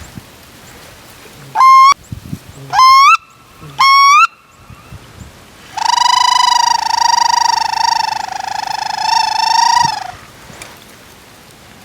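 Hand-blown waterfowl call sounded close by: three short squeals that slide up in pitch, then one long held note lasting about four seconds.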